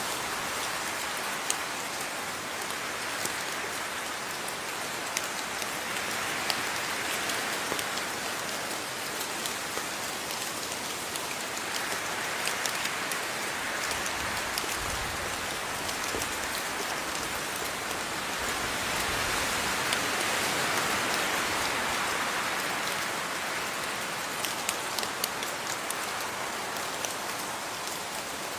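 Steady rain falling, an even hiss that swells and eases slowly, with many individual drops ticking sharply on a hard surface.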